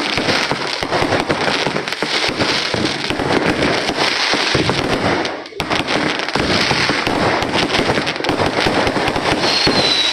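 Dense, continuous crackling of many fireworks and firecrackers going off at once, with a brief lull about halfway through and a thin high whistle near the end.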